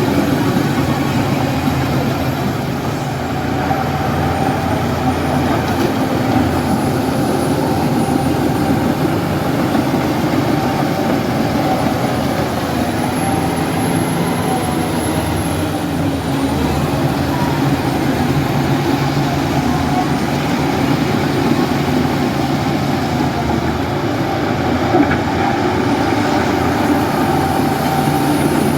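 Crawler bulldozer's diesel engine running steadily, with a faint high whine above it.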